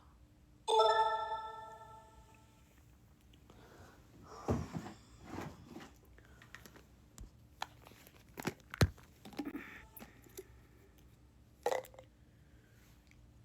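A single bright ringing tone about a second in, fading over about two seconds, followed by scattered sharp clicks and short crunching, rustling handling noises.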